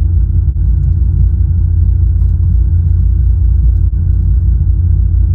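Steady low rumble, heaviest in the deep bass, with no distinct events.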